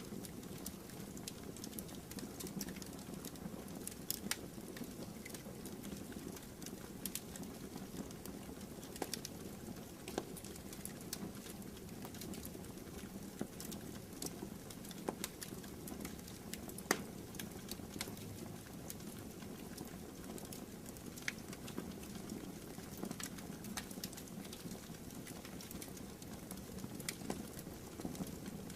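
Campfire burning: a steady low rush with irregular sharp crackles and pops from the burning wood.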